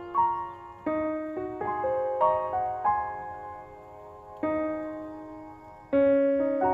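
Background piano music: slow, gentle notes played one after another in broken chords, each ringing and fading, with a louder chord struck near the end.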